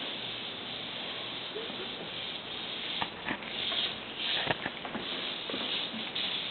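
Cicada's distress buzz, a steady harsh racket given off while it is being attacked by a cat, with a few sharp taps about three and four and a half seconds in.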